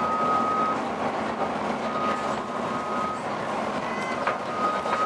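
Volvo B9TL double-decker bus running with a strange howling noise: a thin, high steady howl that comes and goes in bursts of about a second, three times, over the general running noise of the bus.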